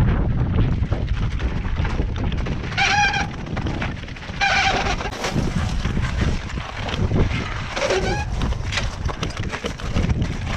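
Strong wind buffeting the microphone in a steady low rumble. Three short pitched animal calls cut through it, about three, four and a half and eight seconds in; the last one falls in pitch.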